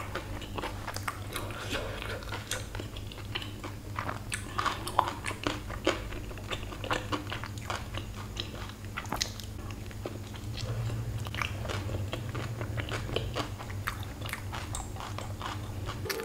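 A person biting and chewing a soft grilled paneer wrap close to the microphone: many small irregular mouth clicks and smacks. A steady low hum runs underneath.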